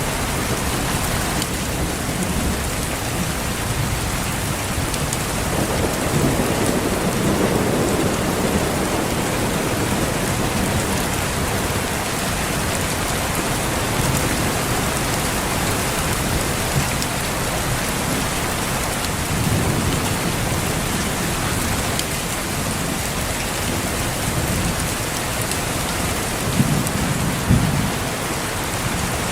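Steady heavy rain with low rolls of thunder: a longer rumble several seconds in, another around two-thirds of the way through, and two short low booms near the end.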